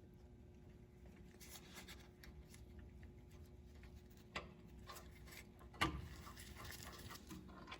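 Faint rubbing and handling noises as a brake caliper slide pin is greased and its rubber boot worked over it. There are scattered light clicks, a sharper click about four seconds in and a louder one just before six seconds.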